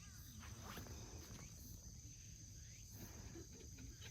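Near silence: faint outdoor background of low rumble, with a steady, faint high-pitched tone.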